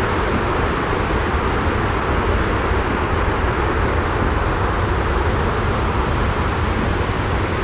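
Jet airliner cabin noise used as a white-noise track: an even, unbroken rumble and hiss with no changes.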